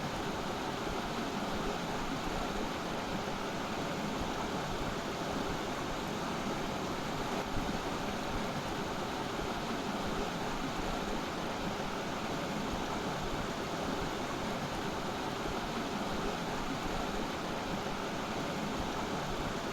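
Steady rushing noise, even throughout, with one slight knock about seven and a half seconds in.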